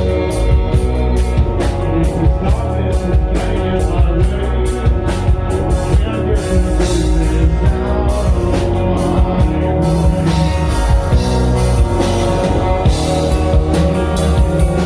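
Rock band playing, with drum kit and guitar, with a steady beat of drum hits.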